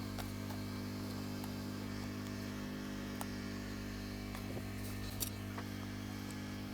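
Hot air rework blower running with a steady hum while heating a phone's glass cover to loosen it, with a few faint ticks from tools.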